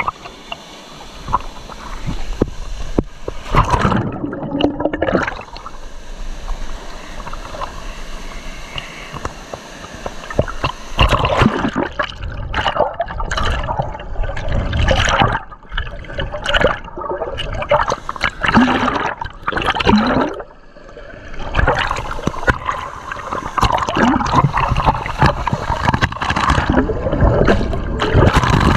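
Fast river current below a waterfall, gurgling and sloshing close to the microphone in uneven surges; the splashing grows busier about a third of the way in.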